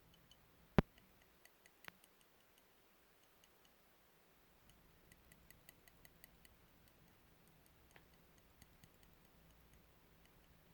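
Fingers handling masking tape: one sharp click about a second in, a second smaller click, then a run of faint, quick ticks and taps.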